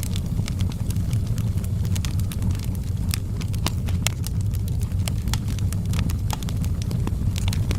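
Wood logs burning in a fireplace: a steady low rumble of the fire with frequent sharp, irregular crackles and pops.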